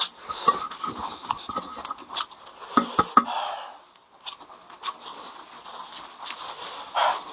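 Close-miked eating: chewing and mouth clicks and smacks, with breathy sniffing and heavy breaths between bites, as from eating very spicy food.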